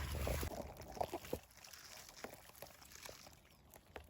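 Rustling and crackling of twigs and bushes as someone backs out through the undergrowth, with a few sharp snaps; a low rumble of wind or handling on the microphone fades out about half a second in.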